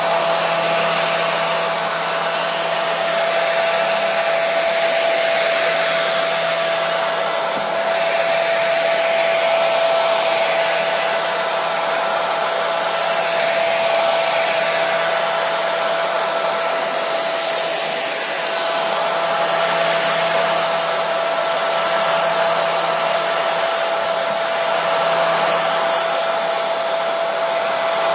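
Hair dryer running continuously: a steady rush of blown air over a constant motor whine, swelling and easing slightly every few seconds.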